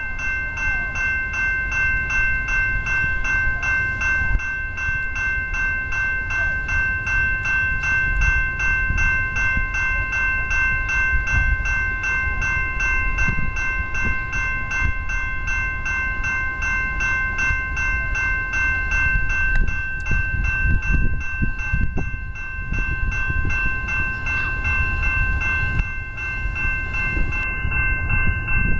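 Railway level-crossing warning bell ringing rapidly and steadily while a commuter train rumbles past on the tracks. The bell's ringing changes near the end.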